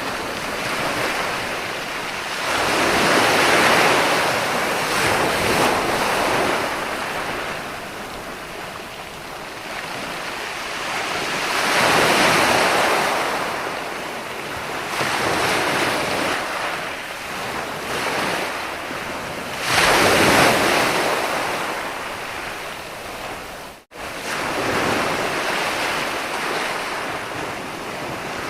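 Ocean surf: waves washing in and pulling back, the sound swelling and easing about every eight seconds. The sound cuts out for an instant about three quarters of the way through.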